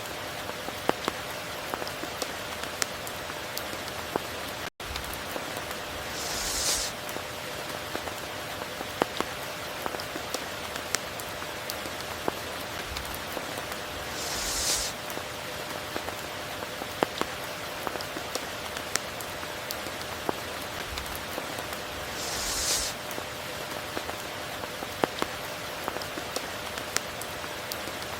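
Steady rain with many individual drops pattering on surfaces. A short high hiss swells and fades about every eight seconds, three times. The sound cuts out completely for an instant about five seconds in.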